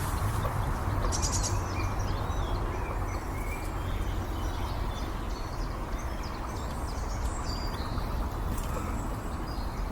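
Outdoor ambience: small birds chirping now and then over a steady low background rumble.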